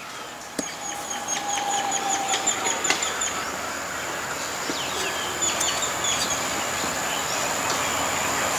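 Birds chirping in quick repeated calls over a steady high-pitched whine, with a few sharp clicks.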